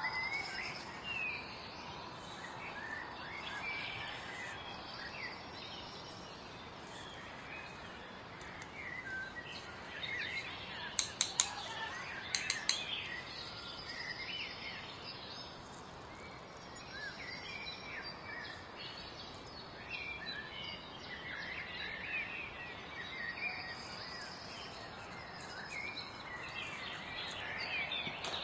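Birds chirping and twittering over a steady background hiss, with a few sharp clicks about eleven to thirteen seconds in.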